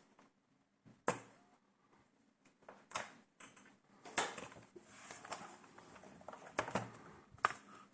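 Handling of a laptop's plastic case: a few sharp clicks and knocks, with soft scraping and rustling between them.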